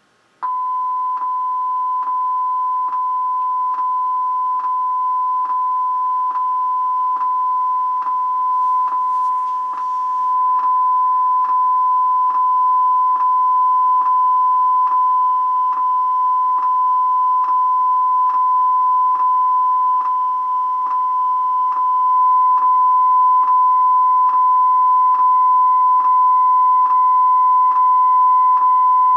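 Steady 1 kHz reference test tone from a VHS tape, the kind that plays over color bars. It cuts in abruptly and holds one unchanging pitch, with a faint regular ticking about every two-thirds of a second.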